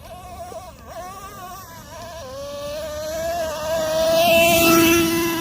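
Traxxas Revo 3.3's two-stroke nitro engine running at high revs, a high whine that wavers up and down in pitch for the first couple of seconds, then holds steady and grows louder, loudest about four to five seconds in.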